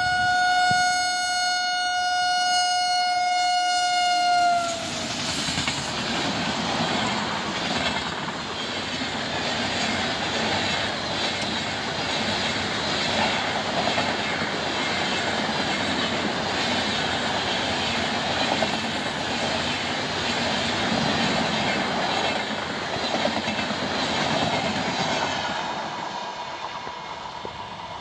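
An Indian Railways electric locomotive sounds one long horn blast of about five seconds. Then its train of LHB passenger coaches runs past with a steady rumble and clatter of wheels on the rails, fading away near the end.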